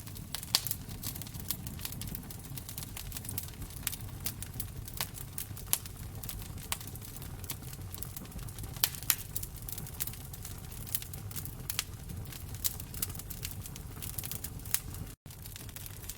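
Wood fire crackling in a fireplace: irregular sharp pops and snaps over a steady low rumble of the flames. The sound drops out for a split second near the end.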